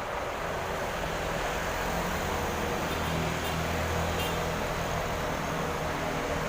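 Diesel engine of a large intercity coach bus running close by, its low engine hum growing louder about two seconds in and easing again a couple of seconds later, over steady traffic noise.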